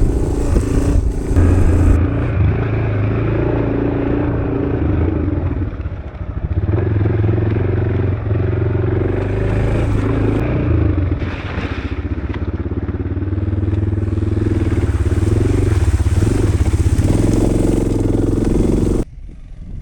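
Dual-sport motorcycle engine running under load while riding a rough trail, with wind rush on the microphone. The engine eases off briefly about six seconds in and again around twelve seconds, and the sound drops away abruptly near the end.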